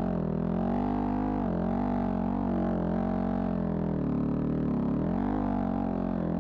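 Vehicle engine running at low revs, a steady droning note that rises and falls slightly with the throttle.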